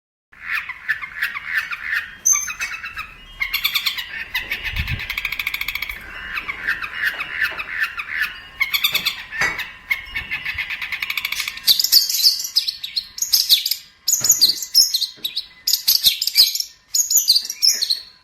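Long-tailed shrike (cendet) singing a fast, varied chattering song of many changing phrases; the phrases move higher in pitch for the second half.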